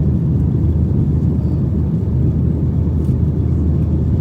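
Boeing 737-800's CFM56 jet engines and airframe heard from inside the passenger cabin: a loud, steady low rumble.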